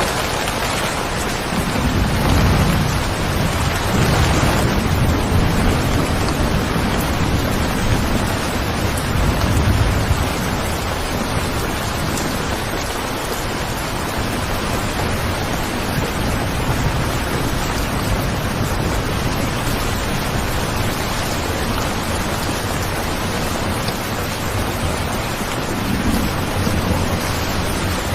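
Steady rain, with a low rolling rumble of thunder swelling from about two to ten seconds in and again briefly near the end.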